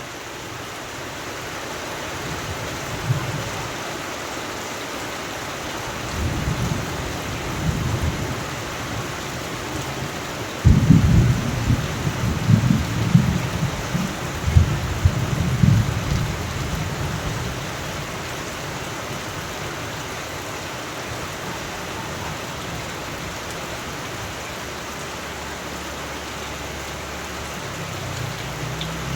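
Steady rain with thunder: a low rumble about six seconds in, then a sudden loud clap at about eleven seconds that rolls on for about five seconds before fading back under the rain.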